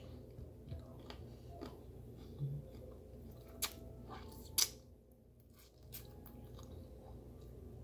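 A person chewing a mouthful of food, close to the microphone, with a few short sharp wet clicks of lips and fingers being sucked clean of sauce.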